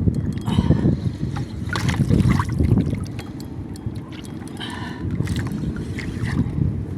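Wind buffeting the microphone over water lapping around a small boat, with a few brief knocks and splashes in between.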